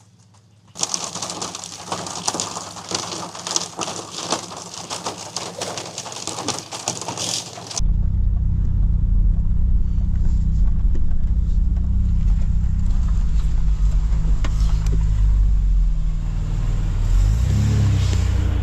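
About a second in, a steady hiss with many fine ticks sets in. About eight seconds in it gives way abruptly to the loud, steady low drone of a 4WD engine and tyres while driving.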